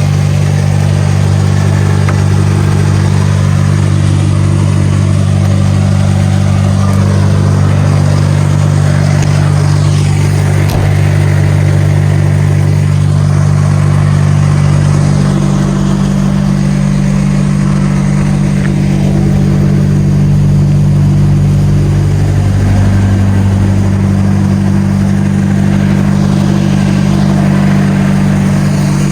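DAF XF truck's diesel engine droning steadily in the cab while driving, with road noise; the engine note shifts a little about halfway through.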